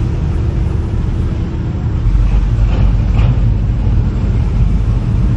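A vehicle's loud, steady low rumble, which grows heavier about two seconds in.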